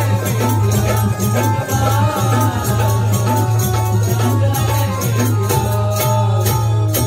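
Instrumental passage of Marathi bhajan music: held melodic notes over a steady beat, with jingling hand percussion.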